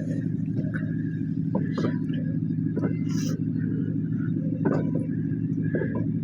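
Steady low rumble of a running train, with scattered light clicks and knocks.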